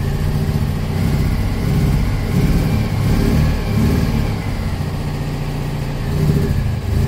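Citroën 2CV's 602cc air-cooled flat-twin engine running just after a cold start, its revs rising and easing a few times above idle while it is held up to get the charging going.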